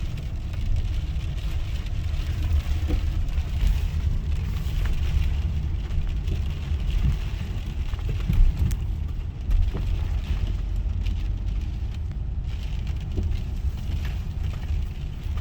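Steady low rumble of a car on the move, heard from inside the cabin, with a few faint knocks.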